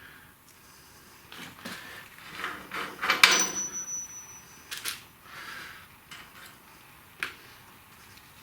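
Metal parts and tools being handled and set down, a run of knocks and clanks; one sharp clank about three seconds in leaves a high metallic ring for over a second.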